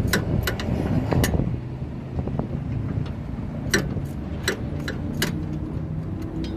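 Irregular sharp metallic clicks and taps from hand tools working on a car's suspension bolts, over a steady low rumble.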